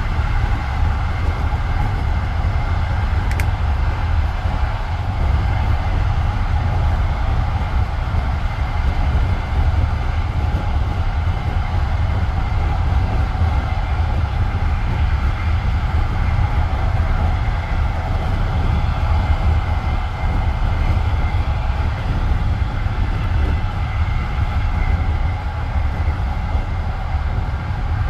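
Passenger train carriage running at speed between stations: a steady low rumble of wheels on the rails, with a faint click about three seconds in, heard from inside the car.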